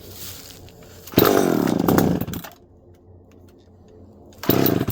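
McCulloch PM 700 chainsaw's two-stroke engine running up in two short bursts, about a second in and again near the end, the revs falling away after each. The engine is not holding speed on its own and needs throttle to keep running.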